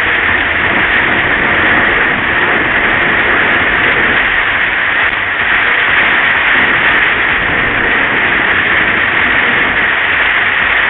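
Steady, loud hiss of heavy rain beating on a car and its tyres running through standing water on the road, heard from inside the car's cabin.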